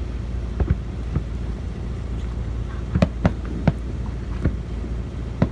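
Fireworks bursting: sharp bangs at irregular intervals, with three close together about three seconds in, over steady wind rumble on the microphone.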